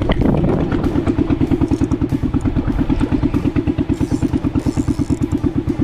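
Boat engine running steadily with an even, rapid chugging of about ten beats a second. A short knock sounds at the very start.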